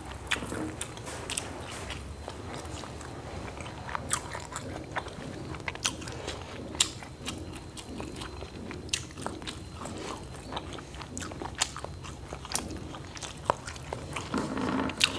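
A person chewing and biting crisp food, picked up close by a clip-on microphone, with many short sharp crunches scattered irregularly throughout.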